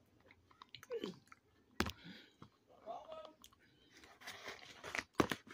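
Chewing and crunching food close to the microphone, with a few sharp clicks.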